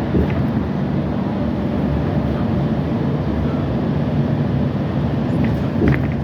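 Metro train running: a steady low rumble with a constant low hum, and a few faint clicks near the end.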